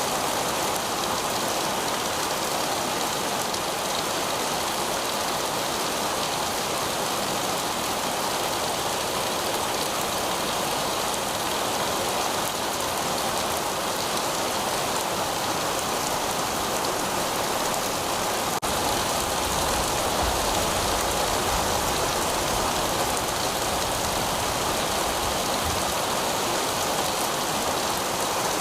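Heavy rain falling steadily on pavement, a dense even hiss. A low rumble joins it for several seconds about two-thirds of the way through.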